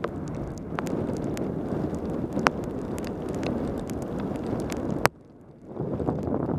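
Wind rushing over a helmet-mounted camera's microphone as a bicycle descends fast in heavy rain, with scattered sharp clicks. The rush cuts out suddenly about five seconds in and returns under a second later.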